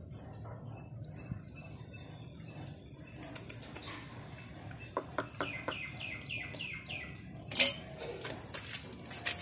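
A bird chirps: a single falling whistle early on, then a quick run of five falling chirps past the middle. Scattered light clicks sound along the way, and about three-quarters through a louder clatter comes as the stainless steel bowl is gripped and moved.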